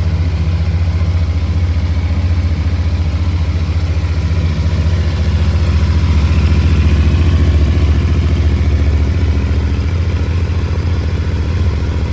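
Brand-new CFMOTO NK motorcycle's parallel-twin engine idling steadily on its first start after the first fill of fuel. It gets a little louder about halfway through.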